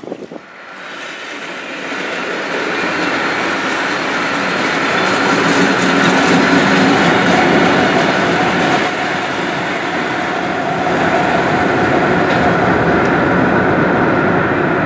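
CSX GE ES44AH diesel locomotives running at speed, heard from a car driving alongside the train, mixed with steady wind and road rush. The sound builds up over the first two seconds and then holds steady.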